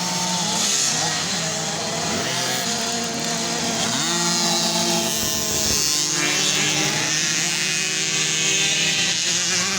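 Several motocross bikes' engines revving as they race, their pitches rising and falling over one another, with a sharp rise about two seconds in and again about four seconds in, over a steady low hum.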